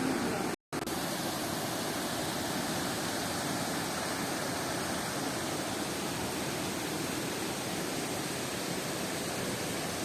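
Steady rush of falling water from a waterfall, an even noise with no breaks apart from a brief cut to silence about half a second in.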